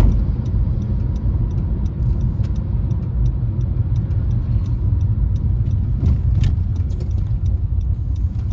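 A car driving, heard as a steady low rumble of engine and road noise, with many scattered ticks that fit rain striking the car in a storm.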